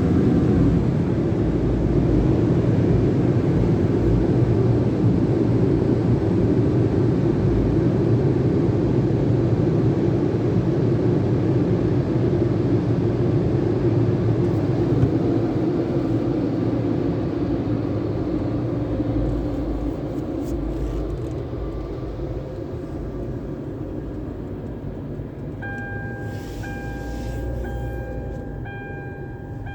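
Car wash tunnel equipment running with a steady rushing noise that fades away over the last ten seconds. Near the end a repeating electronic beep starts, with short gaps between the beeps.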